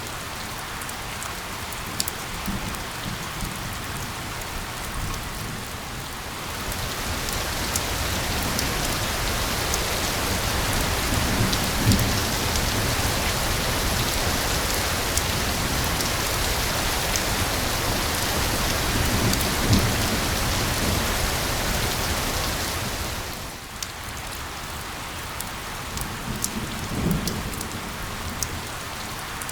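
Recorded rain mixed with white noise: a steady hiss with scattered sharp drop ticks. About a quarter of the way in it swells louder and brighter, then eases back a little over halfway through the last third. A few short low rumbles are heard.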